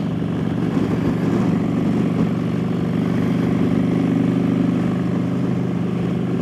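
Motorcycle engine running at a steady highway cruise, with wind rushing past.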